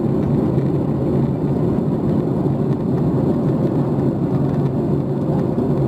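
Steady cabin noise inside a Boeing 737 MAX 8 during descent: engine and airflow rumble with a constant low hum.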